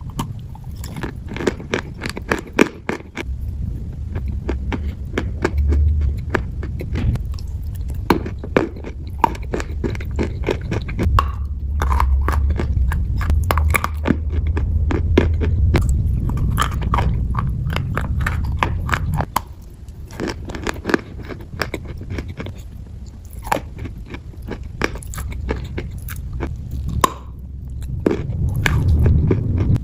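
Close-up biting and chewing of chalk balls coated in clay paste, with many irregular sharp crunches over a low rumble.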